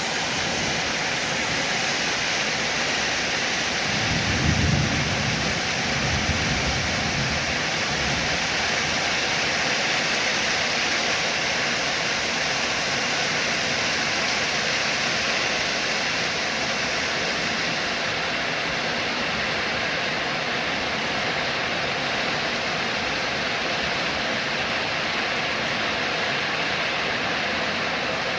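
Steady heavy rain, with a low rumble of thunder rolling in about four seconds in and fading out over the next few seconds.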